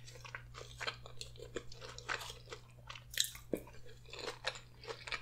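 Close-miked chewing of a mouthful of spaghetti with meat sauce: a run of irregular short mouth clicks and smacks.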